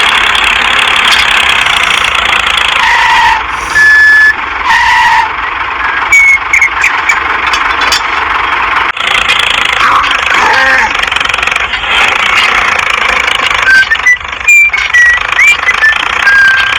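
Small motor of a DIY mini toy tractor running steadily with a loud, hissy whine, with brief high-pitched chirps now and then.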